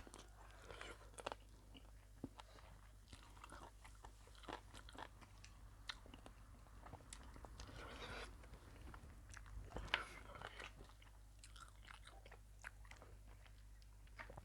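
A person eating a spicy mee sua noodle salad with chicken feet: quiet chewing and crunching, with many small, scattered mouth clicks and a slightly louder bite about ten seconds in.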